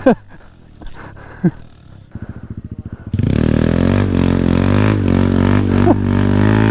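Small 125cc single-cylinder motorcycle engine: a quick run of low pulses, then loud steady running from about three seconds in, its pitch wavering slightly with the throttle.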